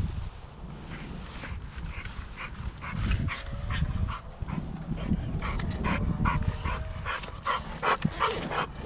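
Dog panting hard after running, quick breaths about two or three a second, over a low rumble.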